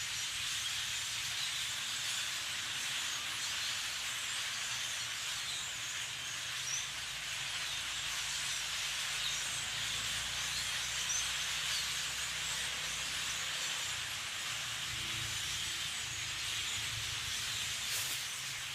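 A large flock of blackbirds calling all at once: a dense, steady mass of many overlapping chirps.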